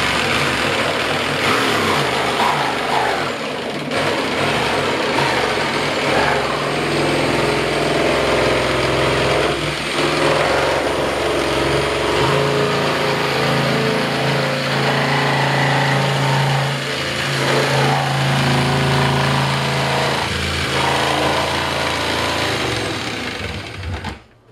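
Handheld power tool running steadily as it cuts a circular hole through a plastic cooler lid, its pitch shifting a little under load, stopping suddenly near the end.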